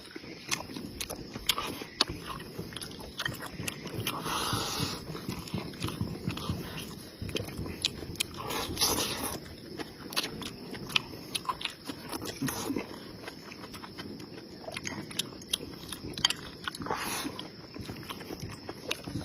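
A person chewing and biting food close to the microphone, a steady run of wet mouth clicks and smacks, with a few louder mouthfuls about four, nine and seventeen seconds in.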